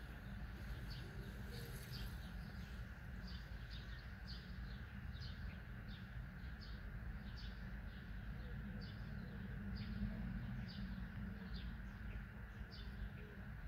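A small bird chirping over and over, short high notes at about two a second, over a steady low rumble of city background noise.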